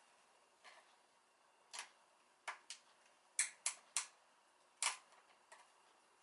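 A series of about nine sharp, separate clicks and taps at irregular intervals, the loudest a cluster around the middle, over a quiet background.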